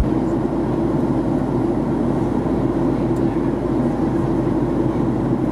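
Steady cabin noise inside a Boeing 737-800 during descent: the engines and rushing airflow make an even, unbroken drone, strongest in a low-middle band.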